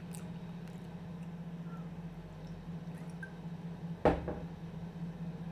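Close-miked chewing of milk chocolate, soft wet mouth sounds with one sharp click about four seconds in, over a steady low hum.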